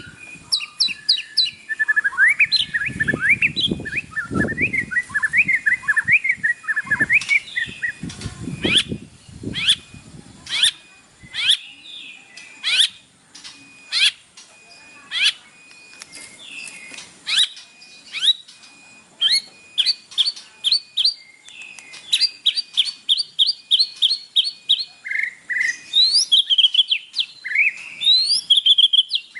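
White-rumped shama (murai batu) singing a fast, varied song of whistles, chirps and rapid repeated notes: a 'pancingan' song used to provoke a kept shama. Low rustling thuds come in twice, about three seconds in and again about eight seconds in.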